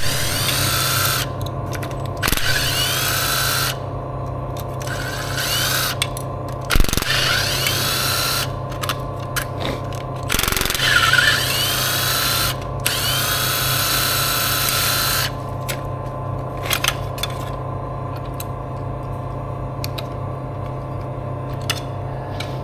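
A power tool run in repeated bursts of one to three seconds, each with a whine that glides in pitch, over a steady machine hum, with a few sharp clicks in between.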